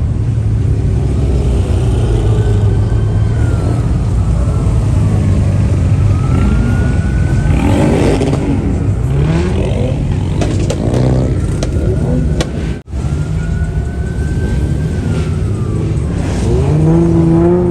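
Car engines running and revving, climbing in pitch several times, under a police siren wailing slowly up and down. A brief dropout about thirteen seconds in.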